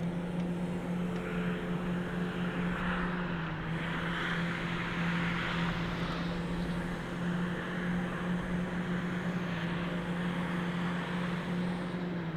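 The Volkswagen LPG engine of a Jungheinrich TFG 320s forklift running steadily with an even hum. A hissing rush swells over it for a few seconds in the middle and then fades.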